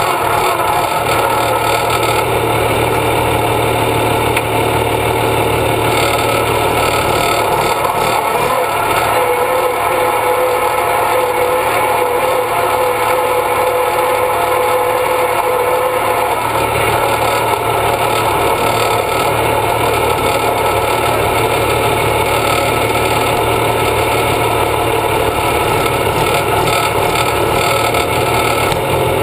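Massey Ferguson 1130 tractor's six-cylinder diesel engine running loud and steady at high revs in a tractor pull, with a held whine from about a third of the way in to past the middle.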